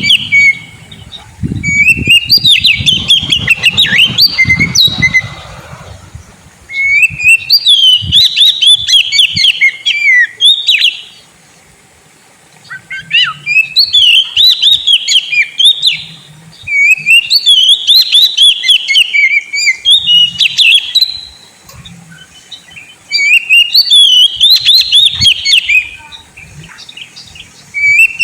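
Oriental magpie-robin (kacer) singing loudly. Its rapid, varied whistled phrases come in bouts of a few seconds, with short pauses between bouts.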